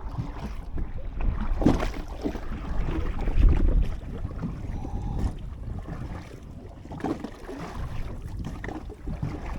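Splashing and sloshing of water from paddling a small boat by hand with a makeshift plastic-jug paddle, with wind buffeting the microphone. There are a few louder strokes, the loudest about three and a half seconds in.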